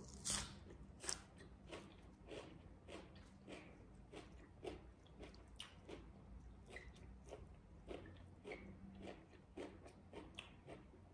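A person chewing a mouthful of fresh raw leafy greens, faint crunching and mouth clicks about twice a second, a little louder in the first second or so.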